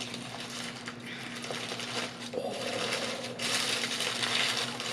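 Rustling and crinkling of paper food packaging as a breakfast sandwich is handled and unwrapped, a little louder near the end, over a faint steady hum.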